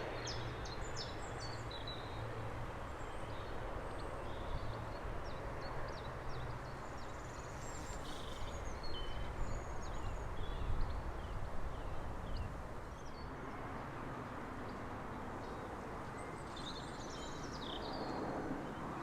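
Small birds chirping and trilling in short bursts throughout, over a steady low outdoor rumble.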